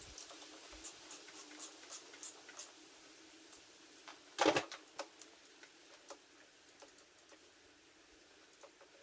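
Scattered light clicks and taps of tools and parts being handled, with one louder knock about four and a half seconds in.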